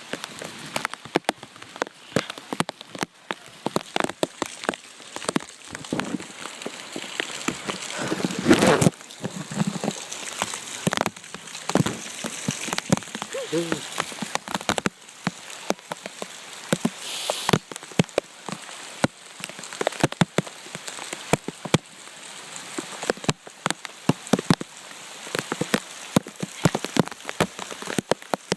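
Steady rain, with drops striking the plastic bag wrapped around the phone close up as a dense, irregular run of sharp clicks over a hiss. About eight seconds in there is one louder, fuller rustle or splash.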